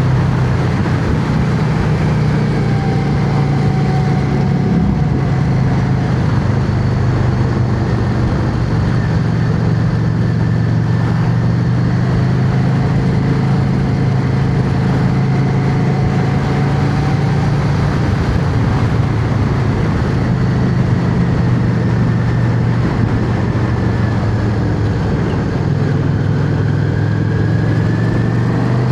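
Yamaha XVS650's air-cooled V-twin engine running steadily at road speed, its pitch dipping and rising slightly a few times, under a steady rush of wind noise.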